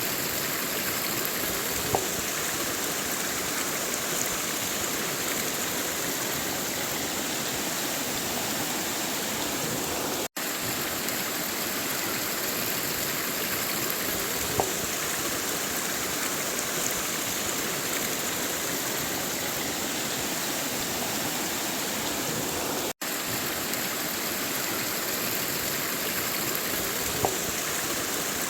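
River water flowing and rushing steadily, an even wash of water noise with a few faint splashes. The sound drops out for an instant twice.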